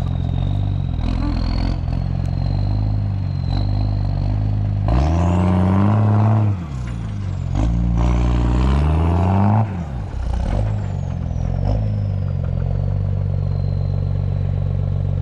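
Unimog truck's diesel engine running under load and revving hard twice, about five and eight seconds in, each burst lasting a second or two before dropping back. A thin high whine rises with the revs and fades away after them.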